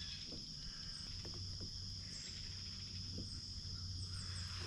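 Steady insect chorus in late summer to early fall: a constant high-pitched trill, with faint short chirps above it and a low rumble underneath.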